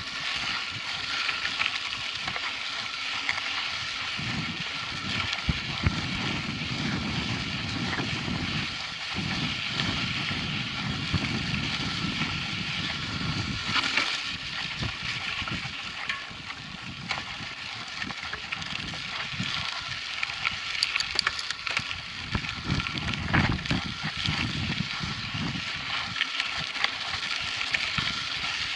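Mountain bike riding over a dirt track: a steady rush of tyre and chain noise with scattered clicks and rattles, and irregular low gusts of wind buffeting the microphone.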